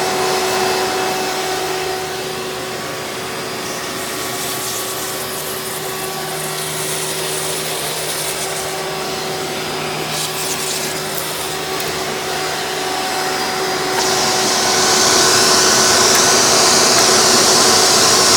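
Hoover Legacy Dirt Finder upright vacuum's 7.2 amp direct-air motor running steadily in tool mode, drawing air through its on-board hose. About fourteen seconds in, the airflow gets louder and hissier.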